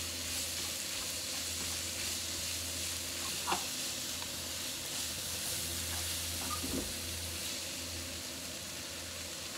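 Sliced pork and shredded cabbage stir-frying in a frying pan over a gas flame: a steady sizzle as the food is stirred and turned with wooden chopsticks. There are a couple of brief taps, about three and a half and nearly seven seconds in.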